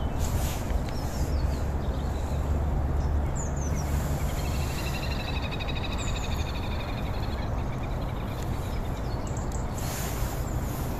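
Outdoor park ambience: a steady low rumble, with a few short high bird chirps. A bird's rapid pulsed trill starts about four seconds in and lasts about three seconds.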